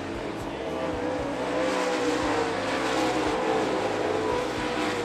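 Dirt late model race cars' V8 engines running hard at speed, their pitch rising and falling as the pack goes by, loudest in the middle.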